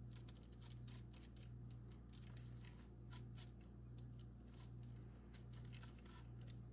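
Faint, irregular scraping and tapping of a palette knife spreading patching plaster onto cardboard, over a low steady hum.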